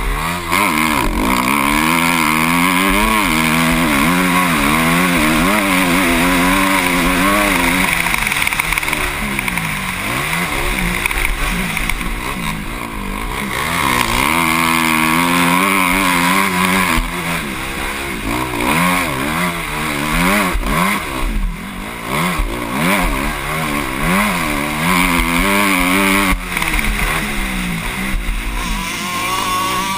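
Motocross bike engine heard from the rider's helmet, revving up and down again and again as the throttle opens and closes through the gears, with a brief drop off the throttle a little past two-thirds of the way through.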